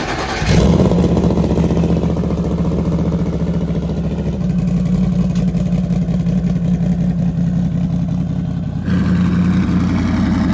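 Twin-turbo Ford Coyote V8 in a drag-race Fox-body Mustang idling steadily through its side-exit exhaust, a step louder from about half a second in.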